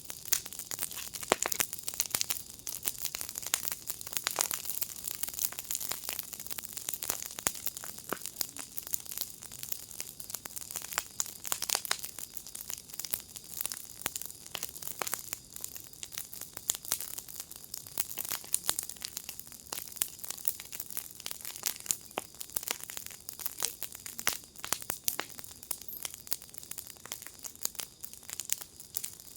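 Fire in a fire pit crackling: a dense, irregular run of small pops and snaps over a faint hiss.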